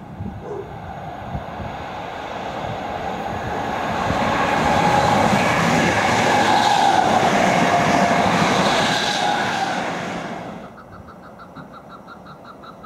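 Greater Anglia electric multiple-unit passenger train passing close by: its noise builds, holds loudest for several seconds, then cuts off sharply about ten and a half seconds in. After that a quieter, rapidly pulsing warning tone sounds.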